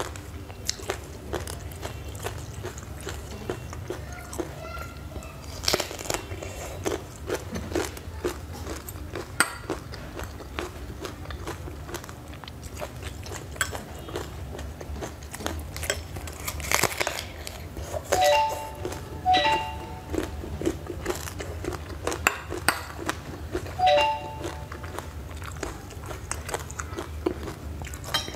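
Close-up biting and chewing of green mango coated in chili flakes, with many small crunches. A few short pitched sounds, in pairs, stand out as the loudest events about two-thirds of the way through and again a little later.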